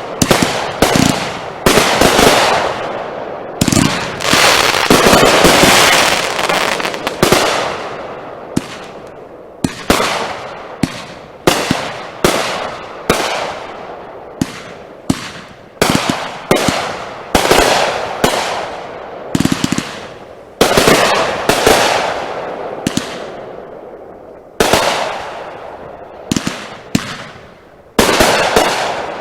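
Consumer aerial fireworks going off in a rapid string of loud bangs, about one or two a second, each trailing off in crackle and echo. The bursts come thickest at the start and again near the end.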